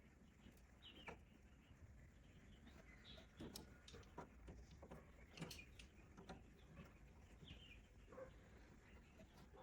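Near silence, with faint scattered light clicks and taps and a couple of faint short chirps.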